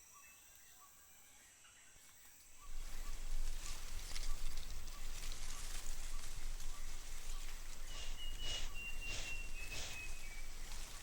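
Faint rainforest insect chorus with a regular chirp, then about three seconds in a steady hiss of rain begins abruptly and carries on. A thin, slightly falling whistle sounds over the rain near the end.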